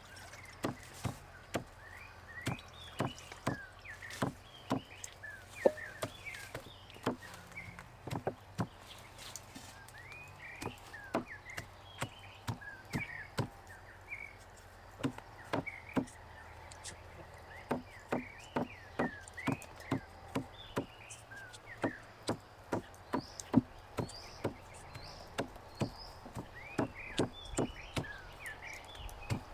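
Knife chopping on a cutting board in sharp, irregular strokes, about two a second.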